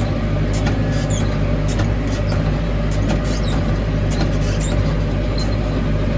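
Tractor engine running at a steady pace while driving over a paddock, with frequent short, high-pitched squeaks and rattles over the drone.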